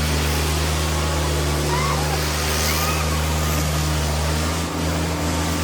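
Tractor diesel engines running steadily under load during a tractor tug-of-war pull, over a dense crowd-like noise with a few short rising high-pitched calls.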